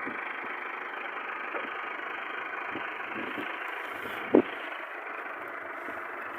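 Tractor engine running steadily, with one sharp knock about four and a half seconds in.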